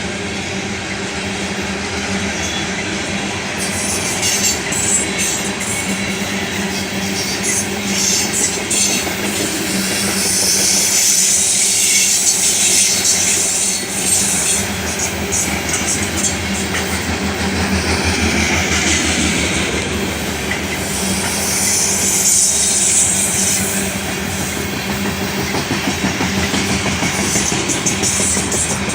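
A fast BNSF coal train's cars rolling past, their steel wheels clacking steadily over the rail joints. The wheels squeal high-pitched twice, about a third of the way in and again past the middle.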